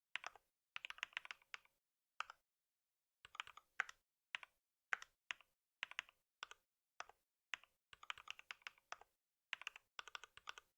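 Computer keyboard typing in short bursts of keystrokes, with brief pauses between the bursts.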